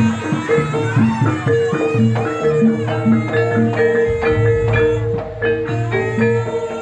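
Javanese jaranan gamelan music: metal mallet-struck keyed instruments play a fast, busy melody over a held tone, with drum strokes. A low, deep sound comes in about four seconds in.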